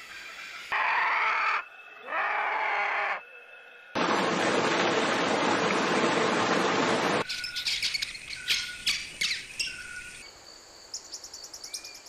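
Bird calls: two harsh calls about a second each, then about three seconds of loud steady hiss-like noise that starts and stops abruptly, then a run of short chirps and whistles, and near the end a fast high trill.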